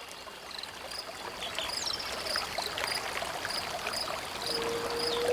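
Running stream water that grows gradually louder, with a regular high chirping about twice a second and scattered short ticks over it. A steady held tone comes in near the end.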